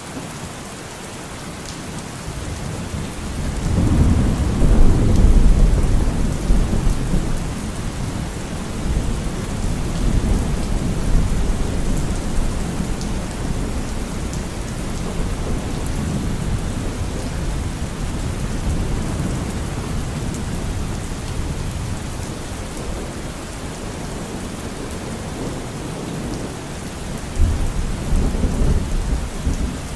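Steady rainfall with thunder rumbling. A long roll of thunder builds about three seconds in, is loudest a couple of seconds later and slowly fades, and another starts near the end.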